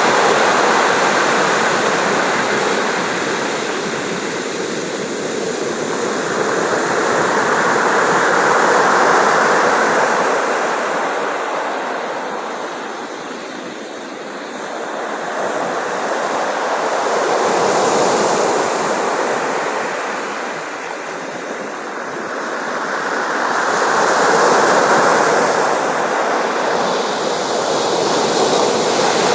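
Sea surf: a continuous rush of waves that slowly swells and fades, cresting about three times.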